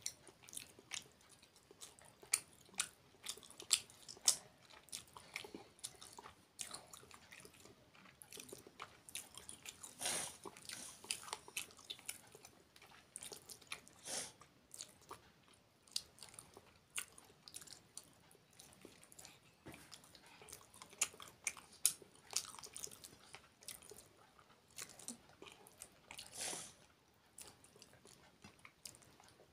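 Close-up eating sounds of a person eating rice and curry by hand: chewing and lip smacking, with many short, irregular wet mouth clicks and a couple of longer, louder ones about ten seconds in and near the end.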